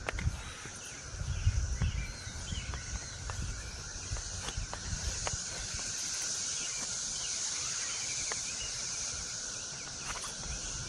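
Cicadas singing in the trees: a steady, high-pitched continuous drone that swells slightly in the middle.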